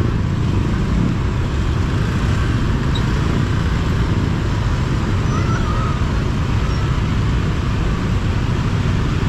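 Steady road-traffic noise, a dense low rumble of passing vehicles with no crossing alarm sounding.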